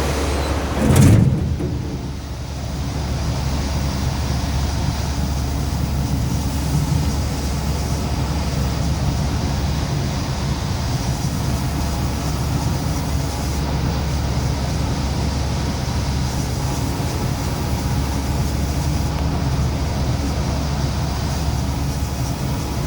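Sawmill machinery running with a steady low rumble and hum. About a second in there is a loud thump, after which the sound turns more muffled, as if heard from inside the saw cab.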